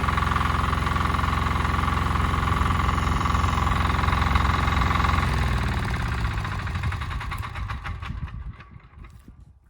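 Single-cylinder diesel engine of a Weima walk-behind tractor running steadily, then shut off about five seconds in, its pitch falling as it runs down to a stop.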